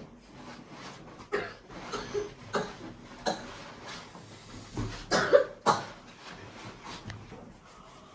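A person coughing: a series of short, harsh coughs, the loudest a little past the middle.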